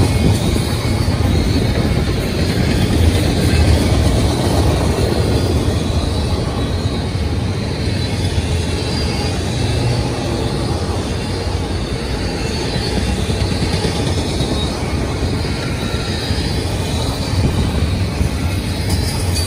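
Double-stack intermodal container cars rolling past: a steady, loud rumble of steel wheels on rail, with faint high wheel squeals now and then.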